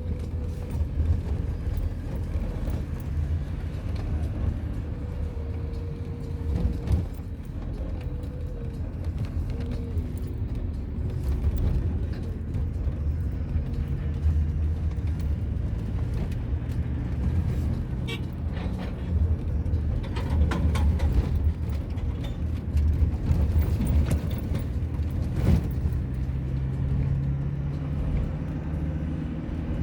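Motor vehicle engine and road noise on a moving road vehicle: a steady low rumble that keeps on without a break.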